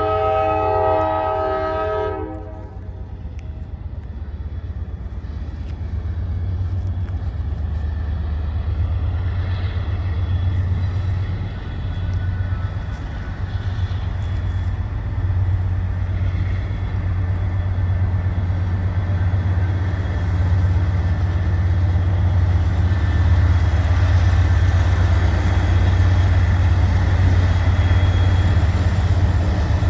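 A diesel locomotive's air horn sounds several tones at once and cuts off about two seconds in. After that the locomotive's diesel engine runs with a steady low hum that grows louder toward the end.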